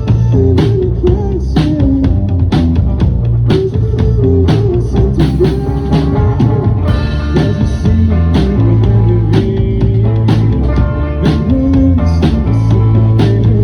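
A live rock band playing: guitar over bass and a drum kit keeping a steady beat.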